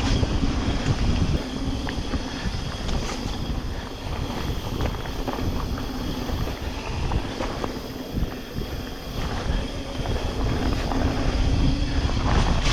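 Wind buffeting an action camera's microphone during a fast mountain bike descent, over the constant rumble of knobby tyres on wet trail, with scattered short knocks and rattles from the bike.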